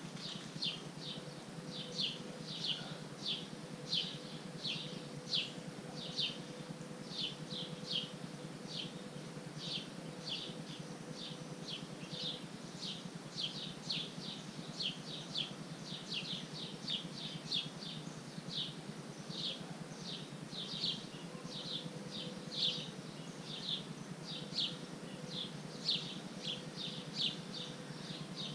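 A bird chirping over and over: short, high, downward-sliding chirps, about two or three a second, keeping up steadily, over a faint low hum.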